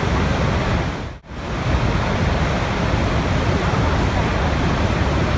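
Steady rushing water with a deep, full noise, dropping out briefly about a second in before carrying on.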